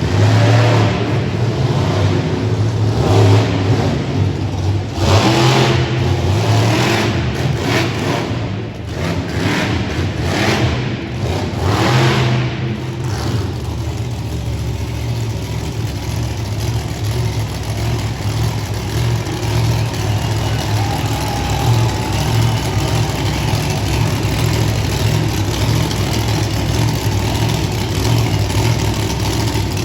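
Monster truck engine running loud, revved in repeated surges for about the first half, then settling to a steadier run.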